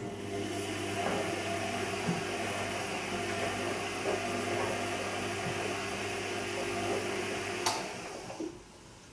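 Bosch Serie 2 Vario Perfect washing machine at the end of its Silk cycle, just after the spin stops: a steady low hum with a few soft knocks from the machine. A click comes near the end, and the sound dies away to quiet.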